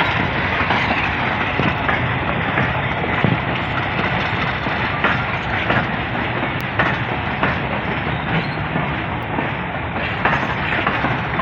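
Goods train wagons rolling past steadily, with a repeated clickety-clack of steel wheels over the rail joints.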